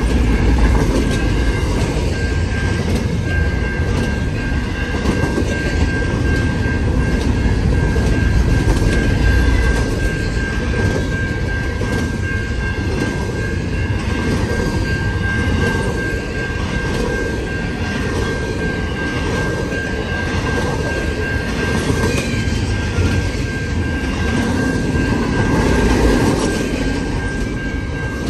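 Freight train cars rolling past, with a steady rumble and wheel clatter over the rails. A steady high-pitched wheel squeal runs along with it.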